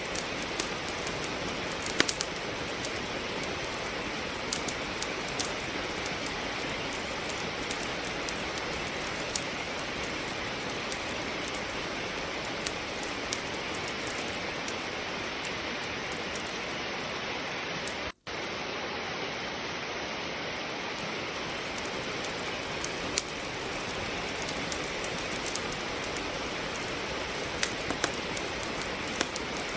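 Steady rain falling, with a wood fire crackling: scattered sharp pops and snaps over the even hiss of the rain. The sound cuts out for a split second about two-thirds of the way through.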